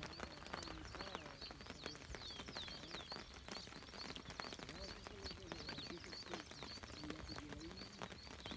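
Wild animal calls: a long run of short high chirps, several a second, over lower calls that bend up and down in pitch, with scattered sharp ticks and taps throughout.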